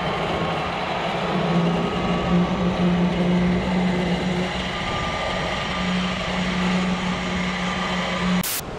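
A motor vehicle's engine running with a steady low drone over road noise. It cuts off abruptly near the end.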